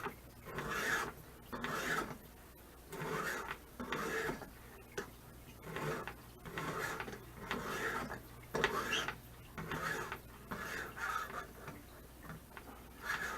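A 200-grit diamond stone in a guided knife sharpener being stroked back and forth along a steel blade edge, a rasping scrape repeated a little more than once a second, grinding out corrosion notches.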